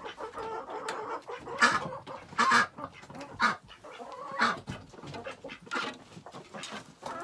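Chickens clucking: a series of short calls roughly a second apart.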